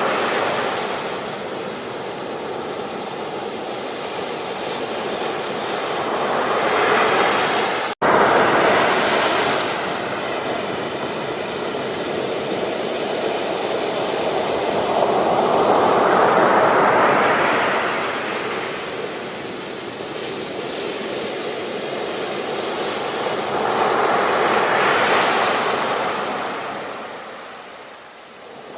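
Ocean surf washing onto a beach: steady noise of water that swells as each wave breaks and fades as it draws back, about every eight to nine seconds. The sound cuts out for an instant about eight seconds in.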